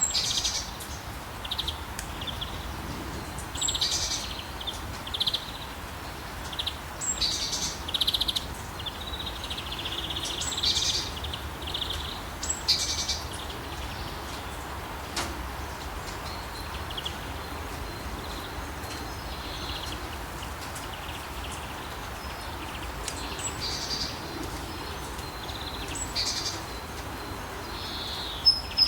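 Rainforest ambience: steady rain hiss with birds chirping and calling over it, many calls in the first half, fewer in the middle, and more again near the end.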